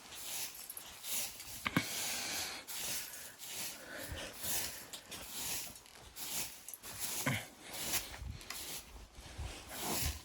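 Footsteps crunching through snow, a rhythmic crunch about every three quarters of a second with occasional dull thuds.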